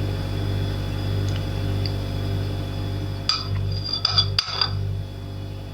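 Four or five quick, ringing clinks of kitchenware, like a utensil tapping glass or a dish, over a steady low hum.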